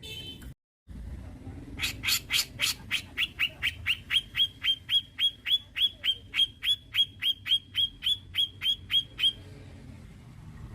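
Grey-cheeked bulbul (cucak jenggot) calling a long run of sharp, evenly repeated notes, each a quick downward slur. The notes come about four a second for some seven seconds, starting about two seconds in, over a low steady background rumble.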